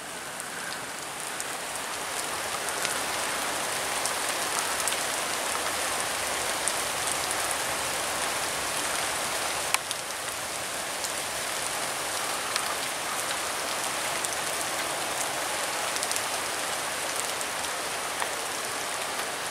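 Rain falling steadily, an even hiss with a few sharp drop clicks.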